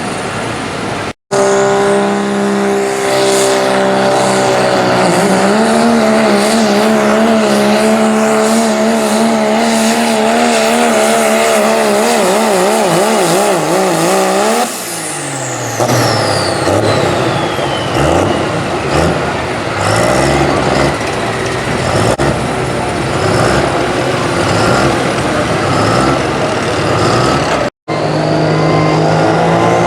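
Diesel 4WD pulling truck at full throttle during a pull, its engine held at high revs with the pitch wavering. About halfway through, the revs drop sharply and a high whistle falls away, then the engine runs unevenly with throttle blips. There are two brief dropouts, one near the start and one near the end.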